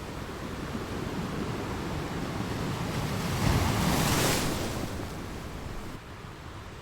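Ocean waves breaking on a shore: the surf swells to a crash about halfway through, then washes back and eases off.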